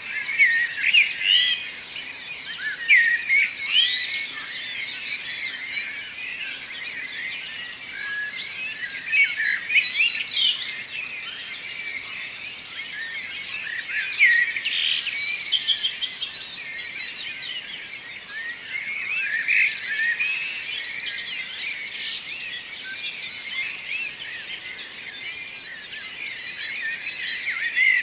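A morning chorus of several songbirds singing at once: dense overlapping chirps, whistles and trills that swell and ease in waves every few seconds.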